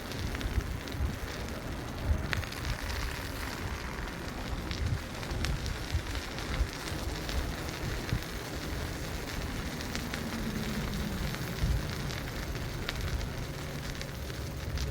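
Wind buffeting the microphone and road rumble from a moving bicycle, with scattered small clicks and rattles.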